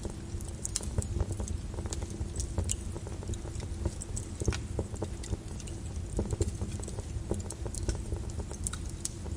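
Molten lava crackling and popping: irregular sharp clicks, several a second, over a steady low rumble.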